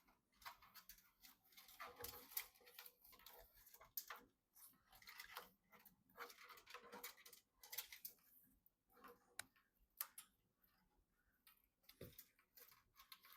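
Faint, irregular clicks, taps and rustling as computer parts are handled during assembly.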